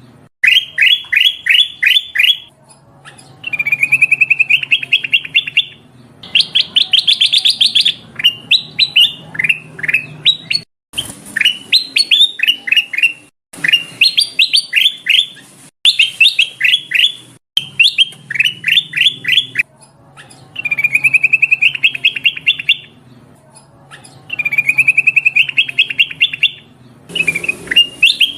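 Kutilang emas, a bulbul, calling in repeated bursts of about two seconds. Buzzy trills alternate with quick strings of sharp, downward-slurred chirps, with a faint hum underneath. This is the female call used as a lure to draw males.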